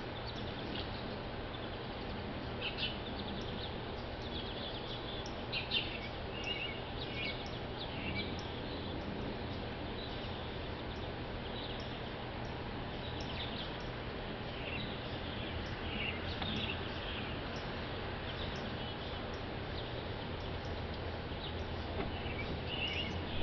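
Small songbirds chirping in short, scattered calls, in clusters a few seconds in, in the middle and near the end, over a steady low background hum.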